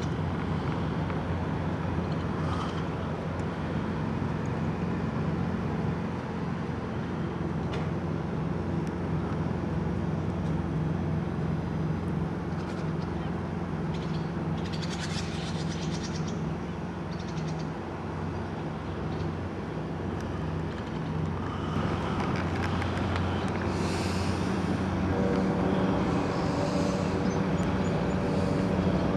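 A steady low motor drone running throughout, with a few short high chirps around the middle and near the end.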